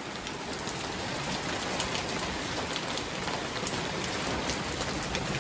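Rain falling on a tiled terrace: a steady hiss with scattered individual drops tapping.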